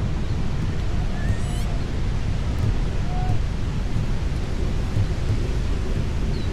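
Wind buffeting the microphone: a steady, loud rumble. A few faint short chirps come through it about a second in, around three seconds in and near the end.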